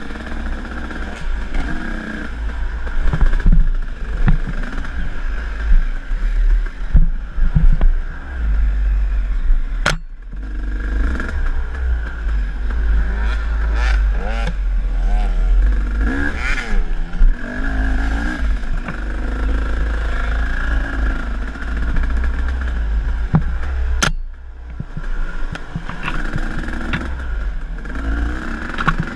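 Enduro dirt bike engine revving up and down while riding a trail, with rattling and clatter over rough ground and a heavy rumble of wind on the microphone. The engine note drops off briefly about ten seconds in and again late on.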